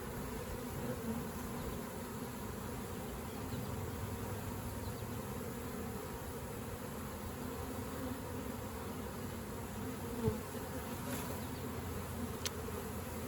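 Honeybee swarm buzzing steadily in a dense hum as the bees are moved from a swarm trap into a hive. A brief knock comes about ten seconds in and a sharp click near the end.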